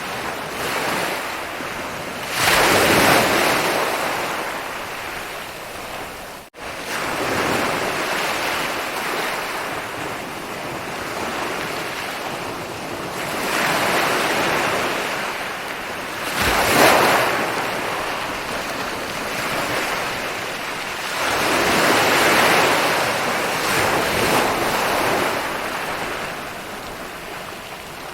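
Ocean waves rolling in and washing up a beach, the surf swelling louder every few seconds as each wave breaks. The sound cuts out for a moment about six seconds in.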